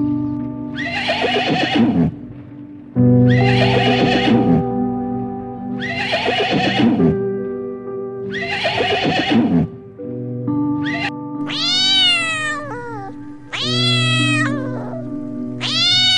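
A horse whinnying four times, about two seconds apart, then a domestic cat meowing several times in long, arching calls, over steady background music.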